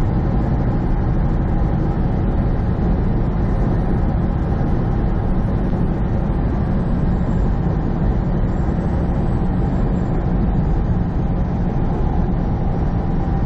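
Steady engine drone and road noise heard from inside a semi truck's cab cruising at highway speed.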